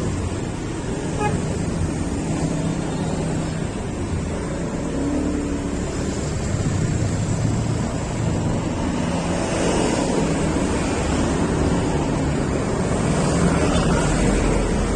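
Wind rushing over the microphone of a moving vehicle, over a steady low engine and road noise.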